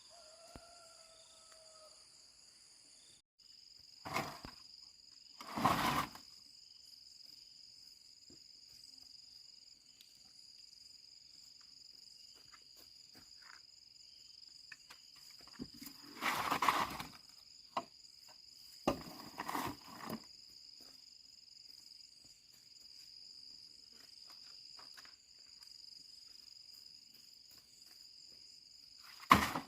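Steady, high-pitched insect chirring with no breaks, broken by a few short, louder knocks and scrapes: a couple early on, two more about halfway through and one at the very end.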